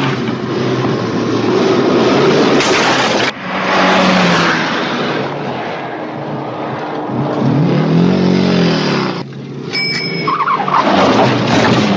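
Film soundtrack of a car being driven hard: continuous engine and tyre noise that changes abruptly a few times, with an engine note rising and falling about eight seconds in.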